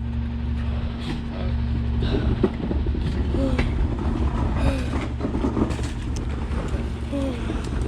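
Autocar McNeilus rear-loader garbage truck running with a steady low diesel hum, and irregular clattering and knocks over it. There are a few short, falling squeaks.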